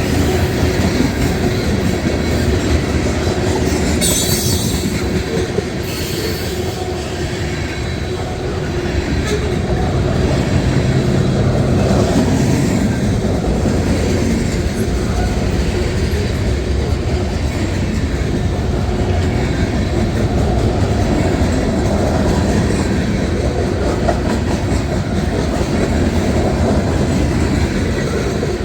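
Freight cars of a long manifest train rolling steadily past, steel wheels running on the rails. Brief high-pitched wheel squeals come about four and six seconds in.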